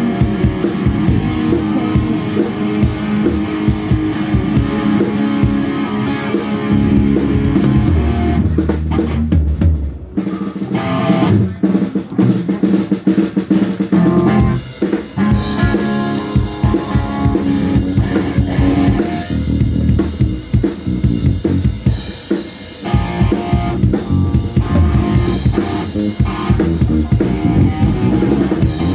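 Live rock band playing: drum kit with bass drum and snare under electric guitar, breaking off briefly a few times and starting again.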